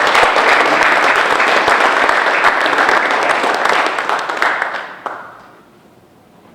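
Audience applauding in a big burst of clapping, dying away about five seconds in.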